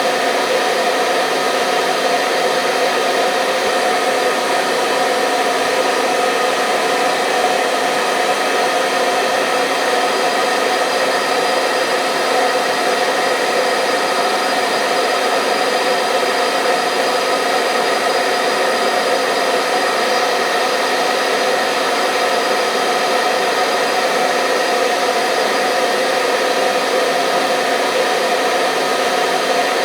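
Hair dryer running steadily: an even blowing hiss with a faint motor hum, unchanging throughout.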